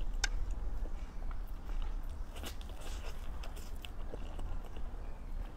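Close-miked chewing and mouth smacks of a person eating soft crepe cake with cream: scattered wet clicks over a steady low hum.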